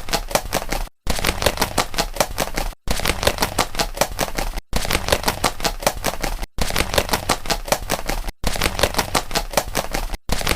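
A fast rattling train of sharp clicks, about a second and a half long, looped over and over with a short break between each repeat.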